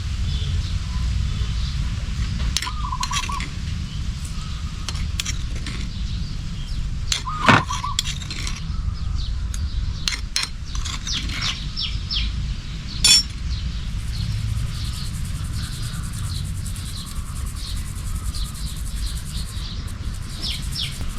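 Scattered light clinks and taps, with a louder knock about seven seconds in and another near the middle, over a steady low rumble; a bird chirps briefly twice.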